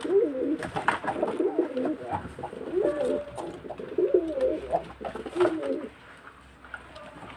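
A domestic pigeon cooing repeatedly in short wavering phrases, the agitated calls of a bird that is annoyed. There are a few sharp clicks among the calls, and the cooing stops for the last second or so.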